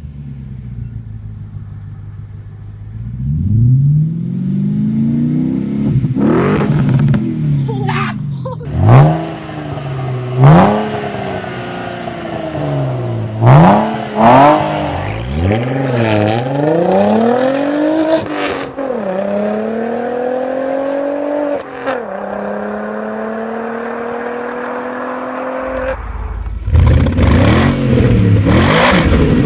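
Audi C5-generation car's aftermarket exhaust, revved from idle in a series of quick blips with sharp cracks between them, then held at a slowly rising engine speed. Near the end a louder, rougher exhaust note cuts in.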